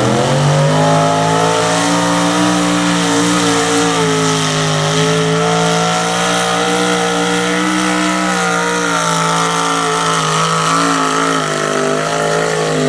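A 1949 International super stock pulling truck's engine held at high revs under full load during a sled pull. Its pitch steps up just after the start, then holds nearly steady with slight rises and dips.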